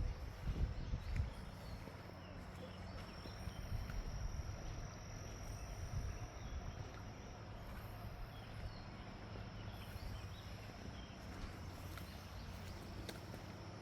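Outdoor ambience with a steady high-pitched insect drone and scattered faint bird chirps over low thuds of footsteps, which are loudest in the first second or so.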